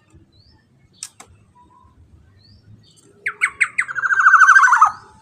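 Black-naped oriole (kepodang) calling: a few short clipped notes about three seconds in, then a fast buzzy trill lasting about a second that drops in pitch as it ends. A sharp click about a second in.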